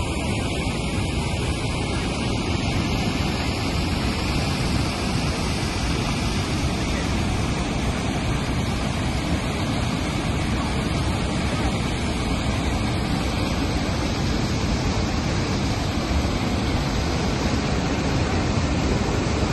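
Steady rushing noise of Niagara Falls, a huge mass of water pouring over the falls and crashing below, as an unbroken even wash of sound.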